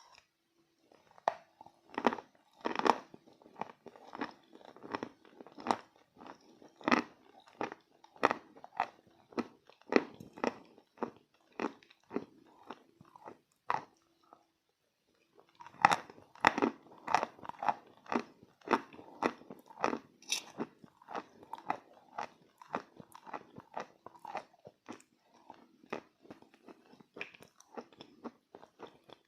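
Close-miked biting and chewing of chalk pieces coated in clay paste: a steady run of crisp crunches, several a second, stopping briefly about halfway through before the chewing picks up again.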